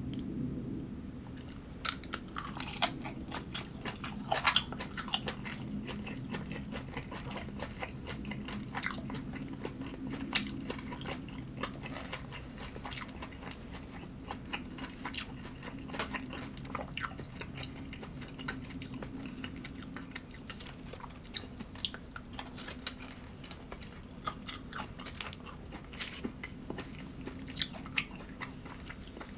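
A person chewing and biting crunchy food close to the microphone, with many sharp, irregular crunches and clicks.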